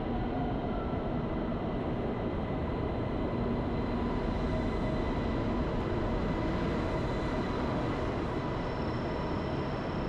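Steady rumble of a train at a railway station, with faint steady whining tones over it.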